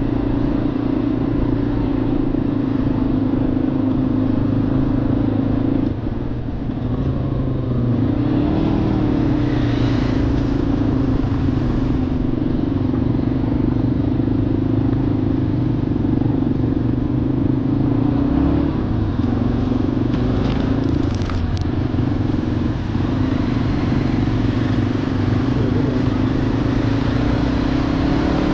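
Motorcycle engine running steadily at riding speed, with road and wind noise; the engine note dips and recovers briefly about six seconds in, again around nine seconds and once more near twenty-one seconds, as with a gear change or throttle lift.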